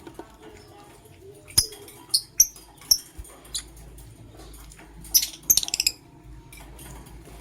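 Lovebirds chirping: four sharp, high single chirps in the first three seconds, then a quick run of chirps around five seconds in.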